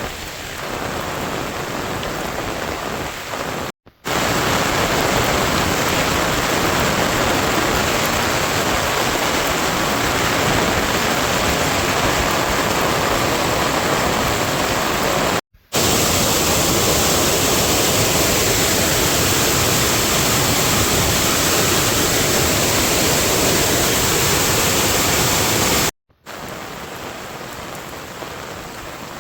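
Heavy rain falling steadily, heard in several stretches with short abrupt drop-outs between them; the middle stretches are the loudest.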